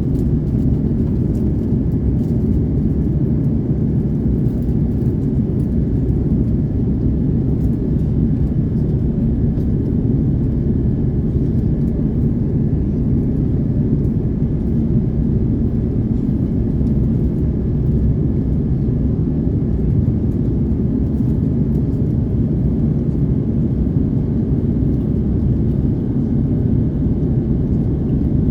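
Steady low drone inside the cabin of an Airbus A330neo in flight, from its Rolls-Royce Trent 7000 engines and the airflow, even and unchanging throughout.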